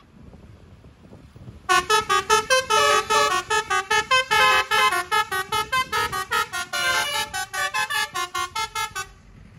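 Bus's telolet 'basuri' multi-trumpet musical air horn playing a fast melody of short staccato notes, starting about two seconds in and cutting off shortly before the end.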